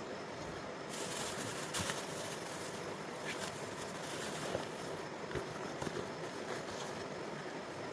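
Steady rushing noise of flowing river water, growing brighter and hissier about a second in, with a few scattered sharp clicks over it.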